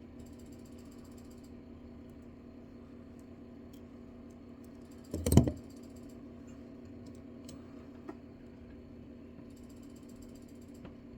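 Small clicks and handling sounds from hand tools on a jeweler's bench, with one loud knock about five seconds in, over the steady hum of a fan.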